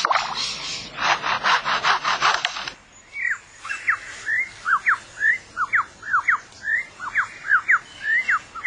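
Superb lyrebird imitating a chainsaw: a run of rasping, sawing pulses. About three seconds in it switches to quick whistled notes that slide sharply up and down.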